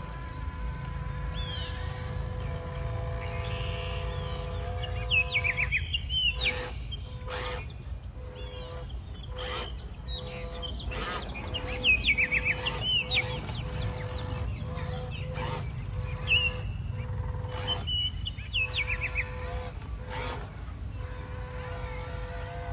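Birds chirping in short falling calls and quick trills, repeated throughout, over a steady hum and a low rumble. Scattered sharp clicks and knocks come in, loudest about five and twelve seconds in.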